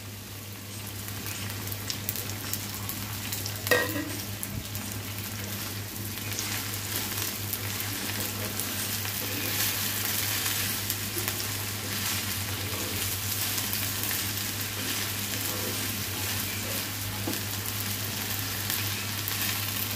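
Chopped okra sizzling in hot oil with fried onions in a frying pan, a steady hiss that grows a little louder after about six seconds. A spatula stirs through the okra now and then, with one short knock about four seconds in.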